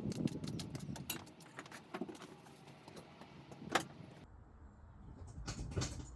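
Scattered clicks, taps and rustling of objects being handled, with a sharper click nearly four seconds in.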